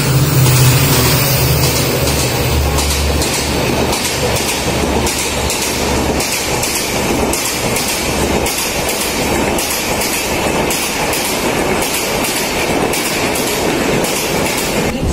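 Mumbai suburban electric multiple-unit local train running on the rails, its wheels clacking over rail joints in a run of regular clicks. A low hum is heard in the first few seconds and then fades.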